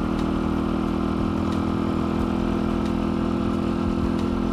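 Dirt bike engine running at a steady, unchanging speed.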